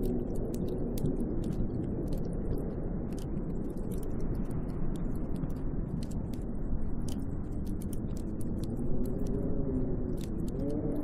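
Snowstorm wind blowing steadily, with a howl that wavers up and down in pitch, fading out about a second in and rising again about three-quarters of the way through. Faint scattered ticks sound over it throughout.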